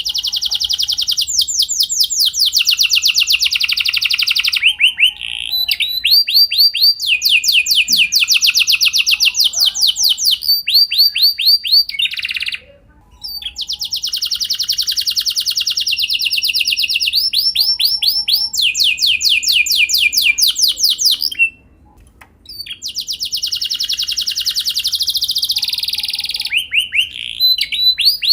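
Domestic canary singing long rolled phrases of rapidly repeated high notes, many sweeping down in pitch, phrase after phrase, broken by two short pauses, one near the middle and one about three-quarters through.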